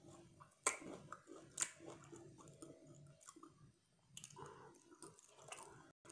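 Close-up chewing of seafood, faint and moist, with a few sharp clicks about a second in, again shortly after, and near the fourth second.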